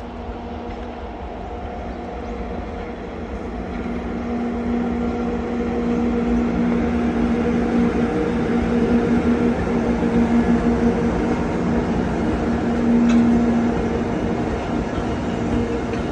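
JR 211 series electric train running, heard from inside the car: a steady rumble with a constant hum, growing louder over the first several seconds and then holding.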